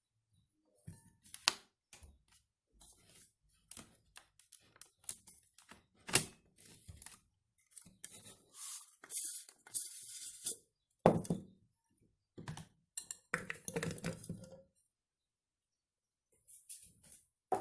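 Irregular knocks and thunks of chopped beetroot and carrot pieces being dropped and handled in a blender jar, with a few brief rustles; the loudest is a sharp thump about eleven seconds in. The blender motor is not running.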